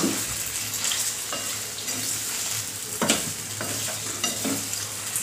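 Potato slices sizzling in hot oil in a steel kadai as a spatula stirs them, with a few scrapes and knocks of the spatula against the pan.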